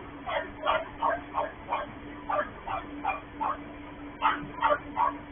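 A dog barking in a rapid series of short barks, about two to three a second, over a steady low hum.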